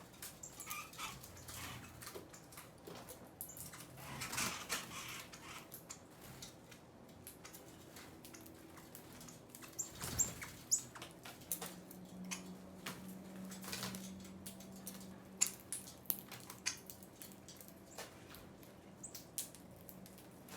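Small birds at a feeder: wings fluttering and many short taps and clicks of pecking and hopping, with a louder flutter about four seconds in. A low steady hum comes in about halfway through.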